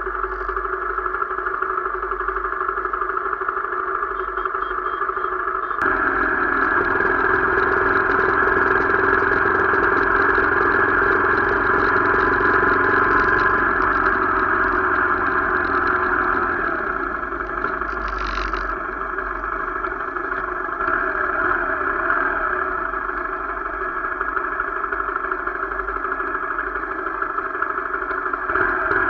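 Motorcycle engine running steadily while riding. It gets louder about six seconds in and eases back down about ten seconds later.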